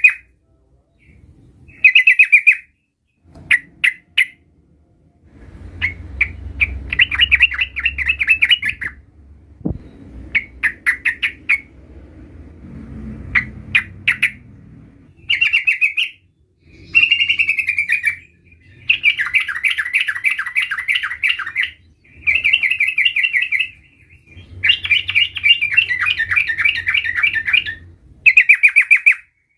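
Yellow-vented bulbul (trucukan) singing in full voice: repeated phrases of rapid chattering notes, each one to three seconds long, with short pauses between them. A low rumble sits underneath in the middle and again near the end.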